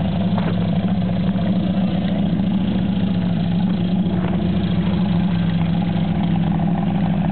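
Jeep's engine running at low, steady revs as the four-wheel-drive crawls over loose rock in low range.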